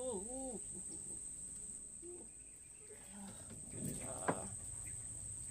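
Insects buzzing as a steady high-pitched drone. A short animal call rising and falling twice comes at the very start, and a sharp click comes about four seconds in.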